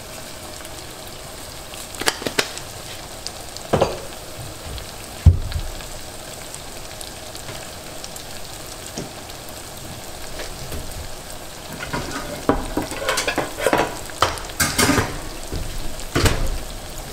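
Lemongrass, garlic and chili paste sizzling steadily in a pot on a gas stove. Scattered sharp knocks and clatters of kitchen utensils cut through it, the loudest about five seconds in and a run of them near the end.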